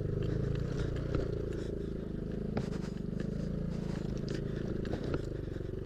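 Yamaha Aerox scooter engine running steadily while riding a rough dirt track, with scattered clicks and rattles of gravel and the bodywork over the bumps.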